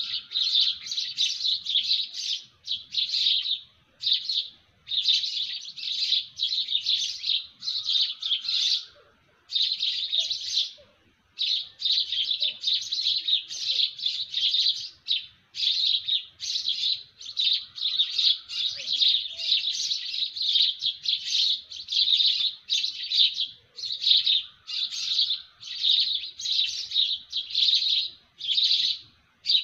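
Songbirds chirping continuously, a fast run of high chirps about twice a second with brief pauses now and then, and a fainter, lower call from another bird every few seconds.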